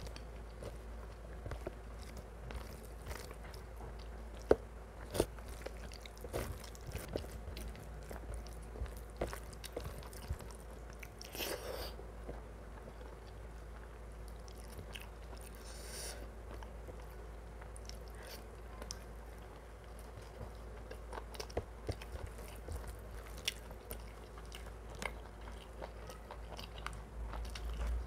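Close-miked chewing and biting of mutton curry and rice: many small wet clicks and smacks, with two longer, noisier sounds in the middle. A steady low hum runs underneath.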